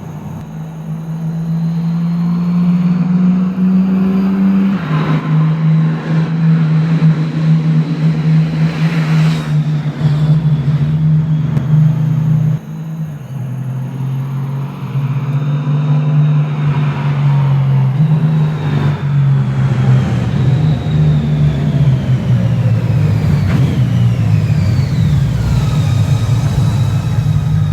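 Honda Gold Wing F6C's 1.8-litre flat-six engine running through a modified Cobra exhaust, a steady low engine note under way. The pitch steps down at gear changes about 5 and 13 seconds in.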